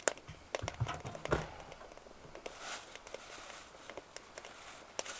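Twig fire crackling faintly inside a BioLite Basecamp wood-burning stove, with scattered small clicks and a couple of soft knocks about a second in.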